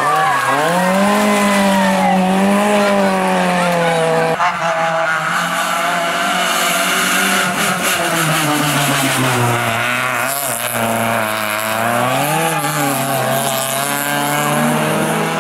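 Rally car engine revving hard, its note rising and falling repeatedly, with short breaks about four and ten seconds in.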